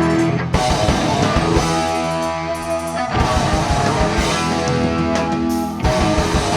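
Live rock band playing an instrumental passage: distorted electric guitar chords held over bass and drums.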